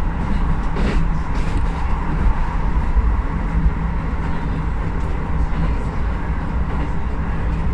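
Keisei 3050-series electric train running at speed, heard from inside the driver's cab: a steady rumble of wheels on rail with a faint steady whine, and a few light clicks about a second in.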